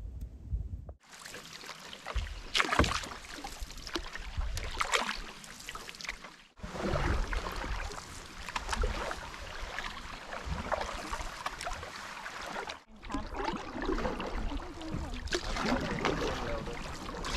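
Water splashing and lapping around canoes, with frequent short knocks and splashes, in three separate clips cut together.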